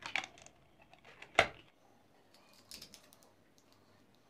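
Hard plastic keyboard parts clicking as they are handled: a few light clicks, one sharp, louder click about a second and a half in, and a short cluster of clicks near three seconds.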